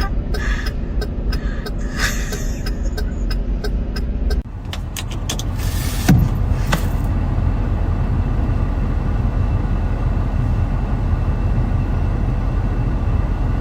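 Steady low rumble of a car, with a run of sharp clicks and taps over the first four seconds and one short sharp sound about six seconds in.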